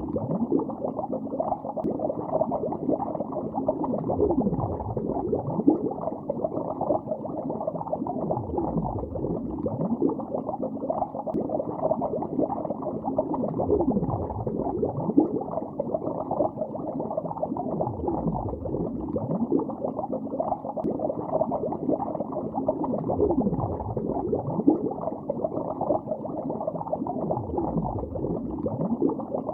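Bubbles heard underwater: a continuous, dense bubbling with many short pitches sliding up and down, dull and muffled with no high end.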